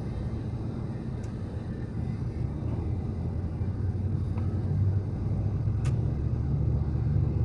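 Steady low rumble of a vehicle driving, engine and tyres, growing louder about halfway through.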